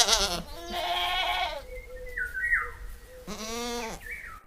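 Goat bleating, with several separate wavering calls: one at the start, a longer one about half a second in, and another near the end.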